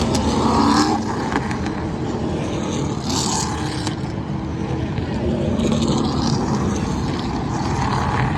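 NASCAR Truck Series race trucks' V8 engines running around the speedway during the opening laps, a steady loud engine noise with the pitch shifting a little as trucks pass.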